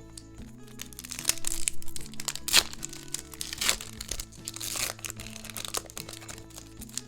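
Crinkly packaging being handled and crackling in irregular bursts, loudest about two and a half seconds in, over soft background music with sustained tones.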